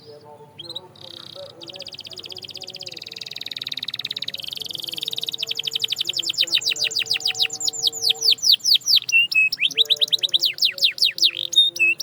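Canary singing: a rapid high trill starts about a second and a half in. It gives way to a long run of quick, repeated downward-sweeping whistled notes that grow louder, broken by a few short held notes near the end.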